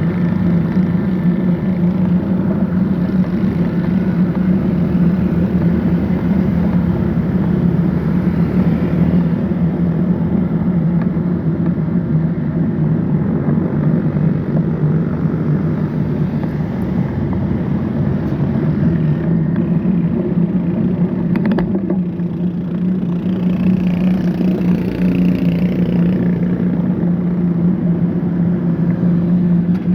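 Steady road-traffic and riding noise: an engine's low drone mixed with the rush of wind and road noise, with one brief sharp click about two-thirds of the way through.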